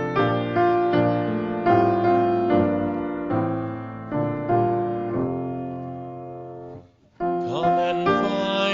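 Piano playing slow, sustained chords that fade away about seven seconds in. After a brief silence, another piece of music starts.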